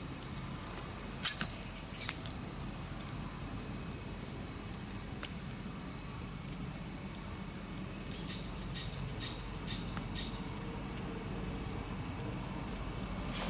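A steady, high-pitched chorus of insects trilling outdoors. A sharp snap about a second in, and a run of about six short falling chirps later on.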